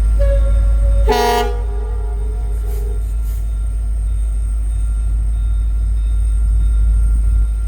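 Train horn on a passenger train's diesel locomotive, a chord of several notes that starts faintly just after the start, goes loud about a second in and dies away about two seconds later, over a steady low rumble.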